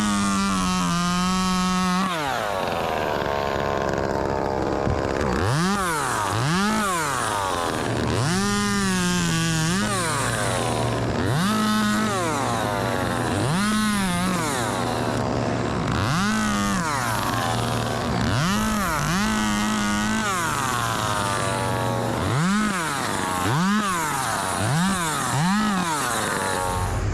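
Chainsaw revved up and down repeatedly, about a dozen times, a few revs held at full throttle for a second or two while cutting.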